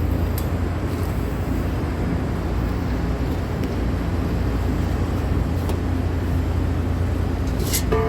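Steady, loud drone of running machinery with a strong low hum. Just before the end a steady higher-pitched tone starts.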